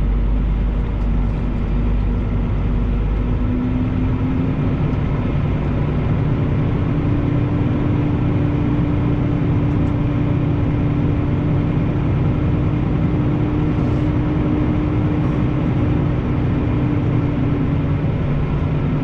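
Semi truck's diesel engine running at low speed, its note rising a few seconds in, holding steady, then easing off near the end.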